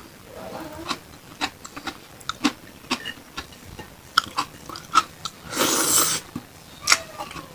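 Close-miked chewing of beef satay, with wet mouth clicks and smacks coming irregularly. About two-thirds of the way through there is a brief, louder rush of noise.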